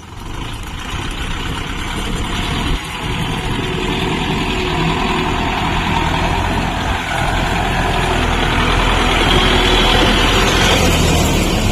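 Kubota MU5502 tractor's four-cylinder diesel engine running, growing steadily louder, with a brief dip about three seconds in.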